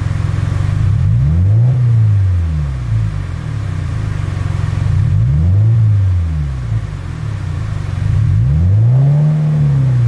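Subaru WRX STI's turbocharged EJ20 flat-four being free-revved through a Trust GReddy Power Extreme R aftermarket muffler: three blips of the throttle, each rising and falling back to idle, the last one highest.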